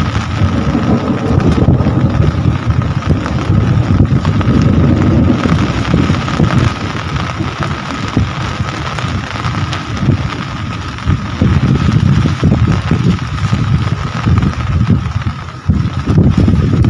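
Steady rain hissing, with gusts of wind buffeting the microphone in low rumbles that swell and fade, and a thin steady high tone underneath.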